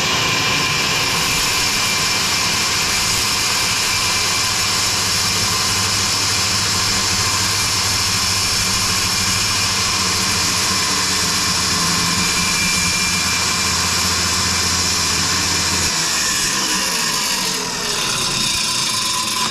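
Electric power saw running steadily as it cuts through plywood, with a constant high whine; near the end the motor's pitch falls as it winds down.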